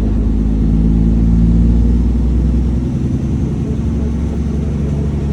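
Diesel dump truck engine running, heard from inside the cab as a steady low drone. About three seconds in the deepest tone drops away and the engine note shifts as the engine changes speed.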